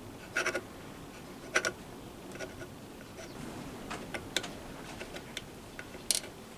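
Irregular light clicks and taps of small metal parts being handled, with louder knocks about half a second in, about a second and a half in, and near the end.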